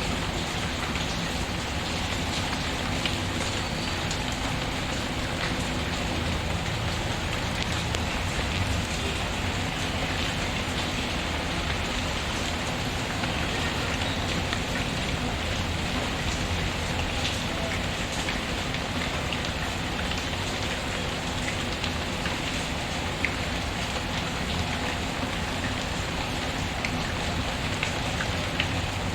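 Steady rain falling, with faint scattered crackles from a wood fire in a fireplace.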